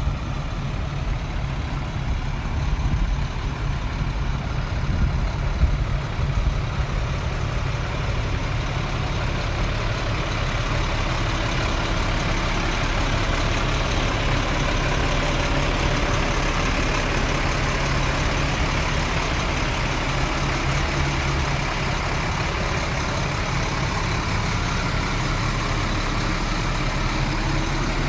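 The diesel engine of a 2006 International 4400 medium-duty truck idling steadily, with a few brief louder moments in the first several seconds.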